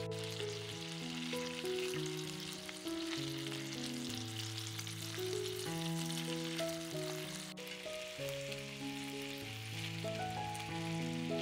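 Food sizzling steadily in a frying pan, over background music with a slow melody and bass line.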